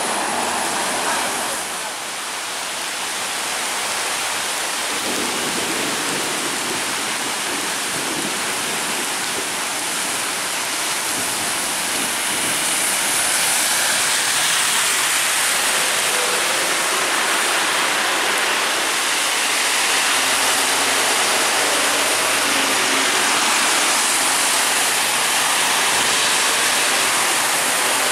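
Steady thunderstorm rain pouring down, a continuous loud hiss. About halfway through, a double-decker bus passes close by, adding the swish of its tyres on the wet road.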